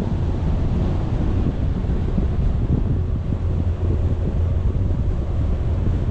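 Wind buffeting the microphone, a steady low rumble with no pauses.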